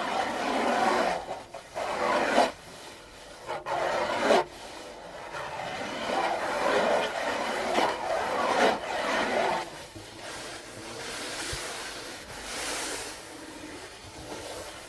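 Scratching and rubbing on a djembe, in strokes of a second or two with short breaks, turning to softer, hissier rubs in the last few seconds.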